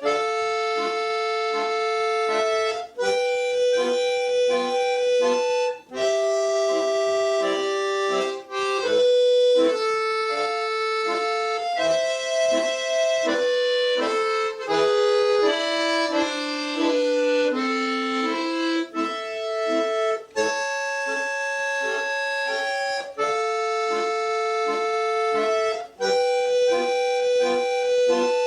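Solo accordion playing sustained chords under a melody line, in phrases separated by brief breaks. The melody steps downward in the middle.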